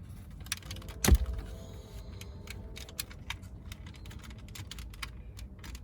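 Scattered clicks and taps of plastic dashboard trim and switch panel being worked loose by hand, with one sharp knock about a second in that rings briefly.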